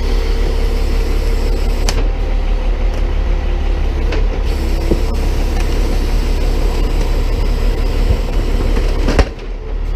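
Tow truck engine running steadily under load while its can-crusher attachment works, with a few light knocks. A loud clunk comes about nine seconds in, and the sound drops off for a moment after it.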